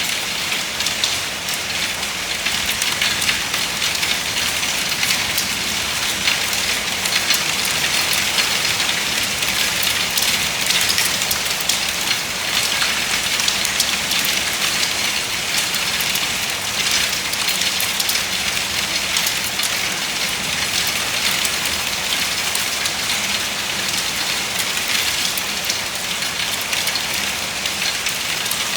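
Steady rain falling and pattering on surfaces, with many fine drop ticks.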